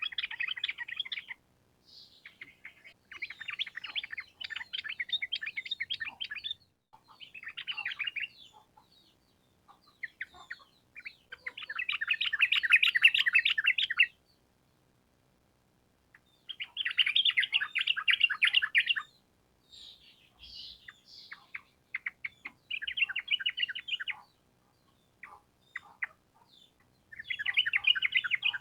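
Yellow-vented bulbul (trucukan) singing in rapid chattering bursts of one to three seconds, with short pauses between them. The loudest burst comes about halfway through.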